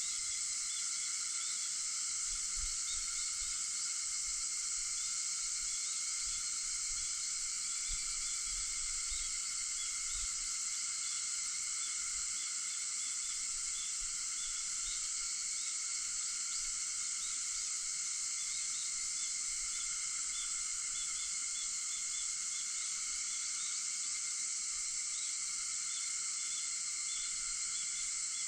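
A dense, steady chorus of cicadas shrilling without a break, with fainter steady insect trills and small repeated chirps underneath.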